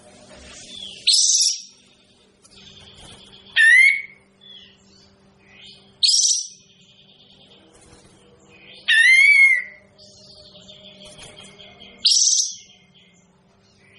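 Kapas tembak songbird calling: a loud, short phrase about every three seconds, five in all, some ending in quick downward-sweeping notes, with softer chirps in between. A faint steady hum underlies it.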